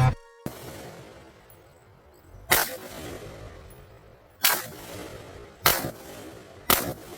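Four single rifle shots from an AR-15 carbine, fired at uneven intervals of one to two seconds, each followed by a short echo.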